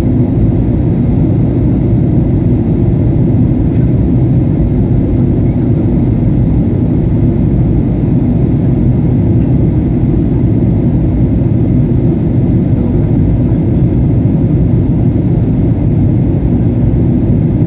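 Steady low roar of a passenger jet heard from inside the cabin: engine and airflow noise, even in level throughout.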